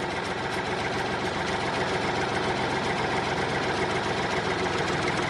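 Tractor engine running steadily at idle, with a fast, even chugging.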